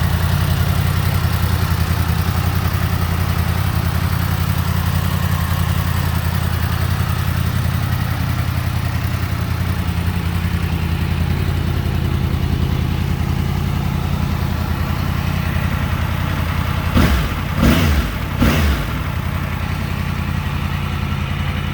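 Yamaha MT-10's crossplane inline-four engine idling steadily, then blipped three times in quick succession about seventeen seconds in, each rev rising and falling back to idle.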